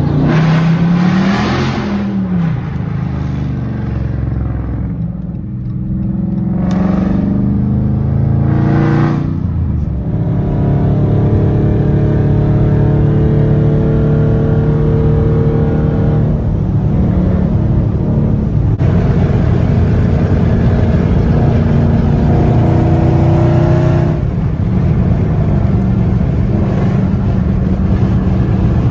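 Straight-piped Dodge 5.7-litre HEMI V8 exhaust with no mufflers, revving a few times in the first ten seconds, then running at a steady, even drone with small shifts in pitch.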